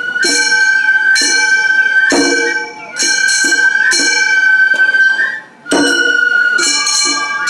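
Gion-bayashi festival music: a nōkan bamboo flute holding a high note that steps to a new pitch near the end, over struck kane hand gongs ringing about once a second, with drum beats underneath.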